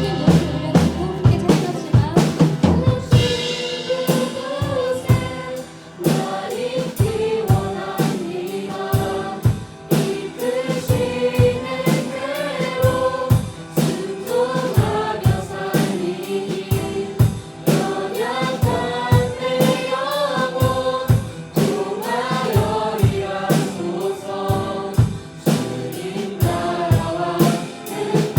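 Live worship band music: a drum kit keeps a steady beat under piano while voices sing a slow worship song together.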